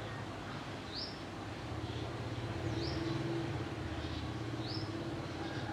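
A bird repeating a short, high, rising note about every two seconds, three times, over a steady low hum.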